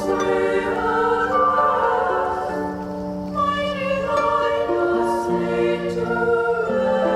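Music: a wordless choir holding sustained chords that change every second or so, from the song's soundtrack.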